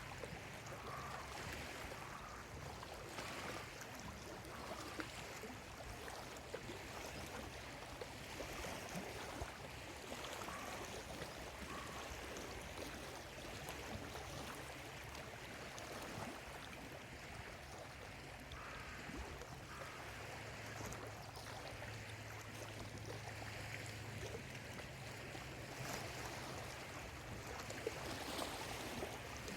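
Small lake waves lapping steadily at the shore, with a few short bird calls now and then and a steady low hum underneath.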